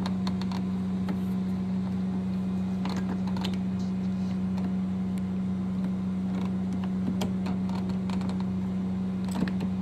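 Small metal clicks and knocks of a car door lock cylinder being worked and seated in the door, over a steady low hum.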